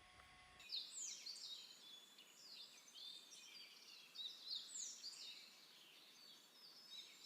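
Songbirds singing, a dense run of quick chirps and whistled notes sweeping down in pitch, starting under a second in after a faint electrical hum cuts off.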